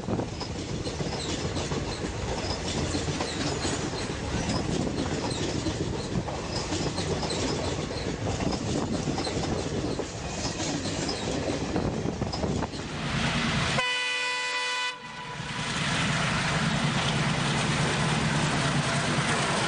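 A train running past with a steady rail rumble, its horn sounding once for about a second near the 14-second mark. Afterwards the sound gives way to a steadier low rumble with wind noise.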